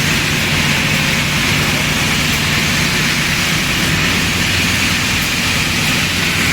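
Heavy-duty double-sided wide-belt calibration sander running: a loud, steady machine hum under an even hiss that does not change.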